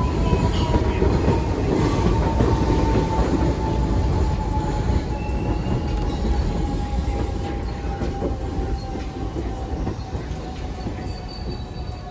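New York City subway train running on the track, with a rumble of wheels on rail and a whine that slowly falls in pitch as the sound gradually fades away.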